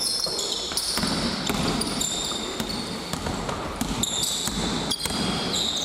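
Basketball game court sound: a ball bouncing and sneakers squeaking on the court in short high squeals, over a low murmur of voices.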